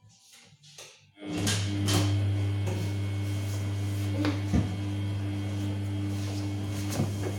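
Samsung P1271 washing machine switching on a steady electric hum about a second in, with a rushing, water-like noise and several knocks and clicks over it.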